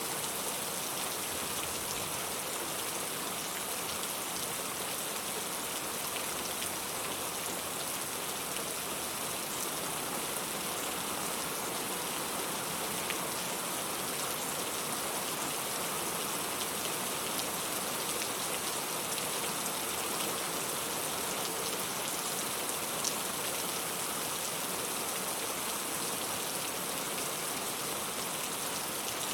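Steady rain falling, an even hiss with a few louder single drops now and then.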